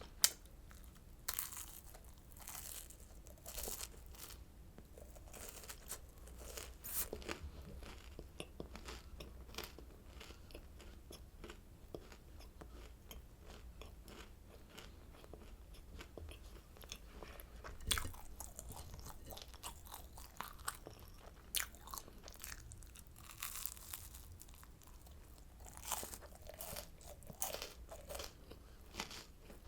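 Close-miked chewing and crunching of oranda, a candied puffed-grain snack: a steady run of irregular crisp crackles, with several louder, sharper bites scattered through.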